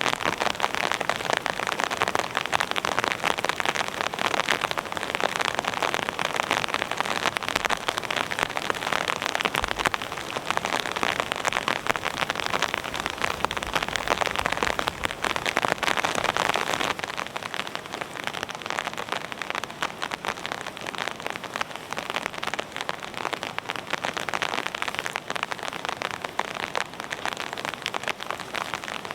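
Heavy rain falling steadily, a dense patter of drops that eases slightly a little past halfway.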